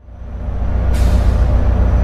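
Train's low, steady rumble with held low tones, fading in from silence over about a second, with a brief hiss about a second in.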